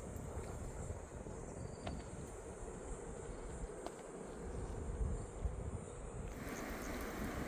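Insects chirring steadily over a low, uneven rumbling noise. A little over six seconds in, a louder rushing hiss comes in and covers the high chirring.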